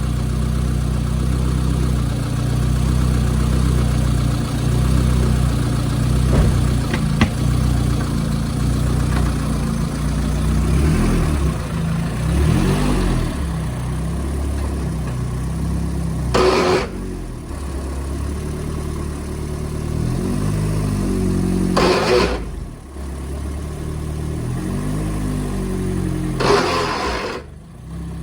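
Honda CRX engine running, revved up several times. Three short, loud, harsh bursts of noise come near the top of the later revs: the horrible sounds of a broken axle.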